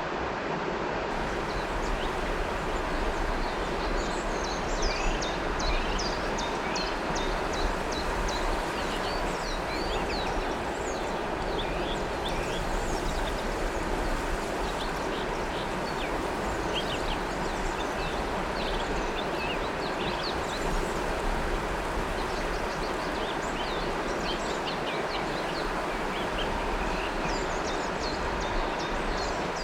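River water flowing steadily, with birds chirping and calling over it in quick, repeated high notes for much of the time.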